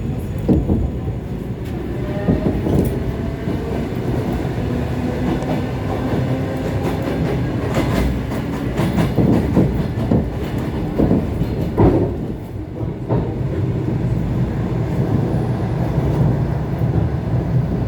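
ET2 electric multiple-unit train running on the line, with a steady rumble and irregular clacks of the wheels over rail joints and points.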